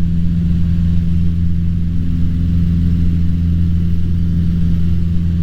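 Cessna 150's four-cylinder Continental O-200 engine and propeller running at full throttle with a steady, unchanging drone, the aircraft climbing out after a short-field takeoff.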